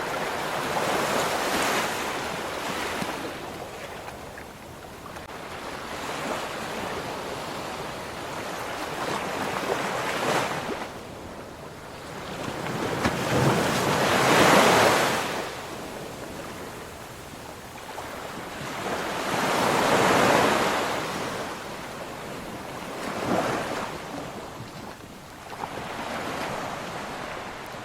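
Ocean waves breaking and washing on a shore, a rushing surf that swells and fades every few seconds. The biggest breaks come about halfway through and again about two-thirds of the way in.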